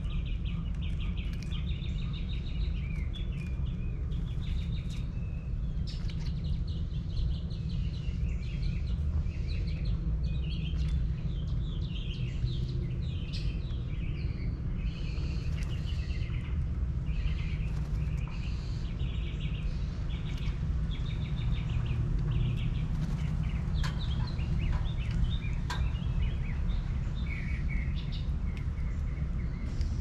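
Small birds chirping and trilling over and over in a garden, over a steady low rumble.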